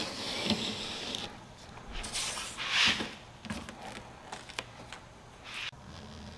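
Hand work on a self-adhesive rubber bumper strip: rustling and scraping, loudest in one rasp just under three seconds in, with scattered small clicks.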